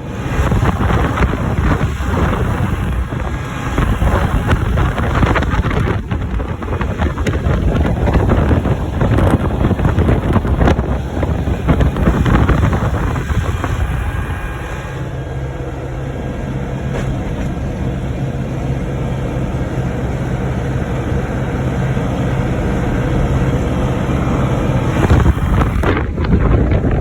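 John Deere tractor running under way, with wind buffeting the microphone. About halfway through, the engine settles into a steadier low hum.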